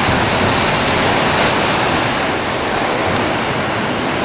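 Loud, steady rushing of a storm's wind and heavy rain.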